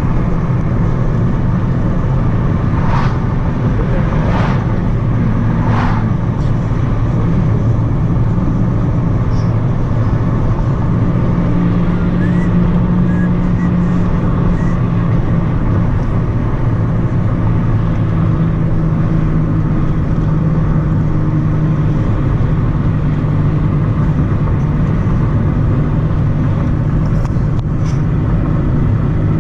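Steady engine and road noise inside a moving car's cabin, with a few short brief sounds a few seconds in.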